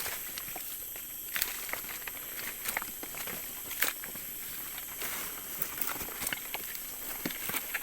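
Footsteps through forest leaf litter, with scattered crackles and snaps of twigs and dry leaves underfoot, over a steady high-pitched drone of forest insects.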